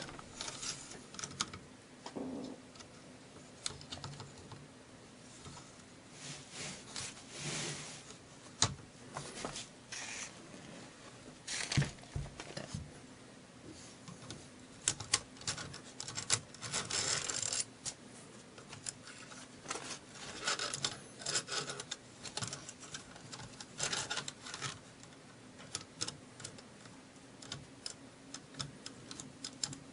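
Round chainsaw file in a file holder rasping over the cutters of a Stihl saw chain, in scattered bunches of short strokes, with a few sharp metal clicks between them.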